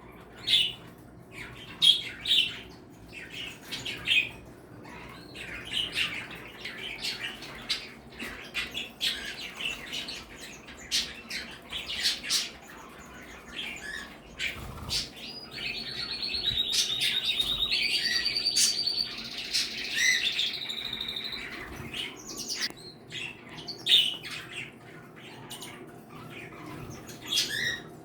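Mixed flock of pet cage birds (parakeets, cockatiels and finches) chirping and calling over one another, with a long, rapid trilled song running from about halfway through for some six seconds.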